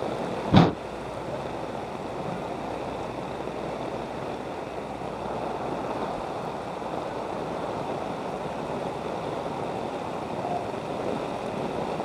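Steady sloshing of street flood water around someone wading through it, with one sharp knock about half a second in.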